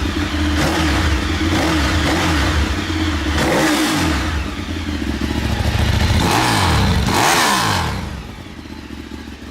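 Ducati 848 Evo's L-twin engine running with its stock exhaust and revved twice, the pitch swinging down and back up each time. It dies away near the end.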